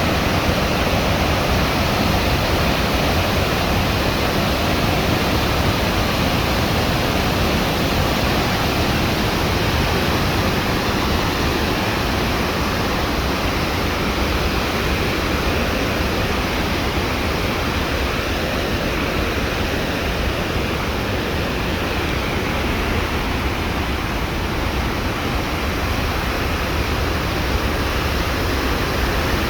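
Steady rushing noise with a strong low rumble and no distinct events.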